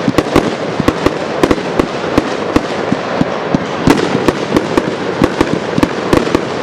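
Aerial fireworks display: a rapid, irregular string of loud bangs, several a second, over continuous crackling.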